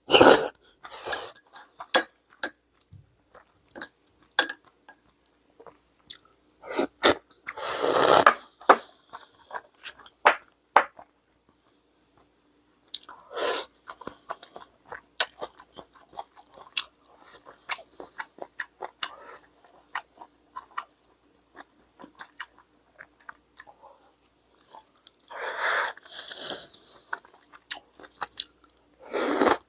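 A person eating close to the microphone: chewing and crunching, with a few louder bursts and many scattered sharp clicks.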